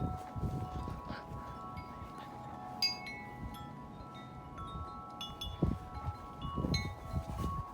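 Corinthian Bells 36-inch wind chime ringing in strong wind, its tubes struck again and again so their tones overlap, with fresh strikes about three seconds in and again near the end. Wind gusts buffet the microphone.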